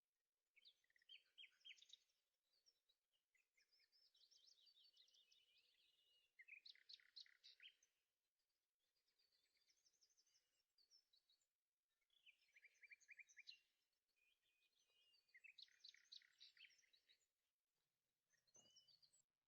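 Faint birdsong: a bird sings short, rapid trilled phrases again and again, with brief pauses between them.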